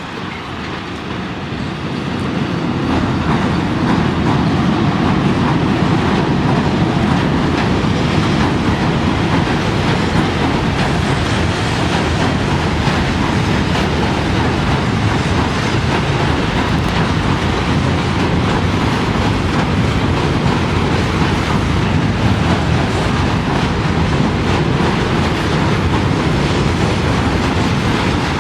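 Freight train behind a VL80S electric locomotive crossing a railway bridge: loud, steady rumble and clatter of wagon wheels on the rails, building over the first few seconds and then holding.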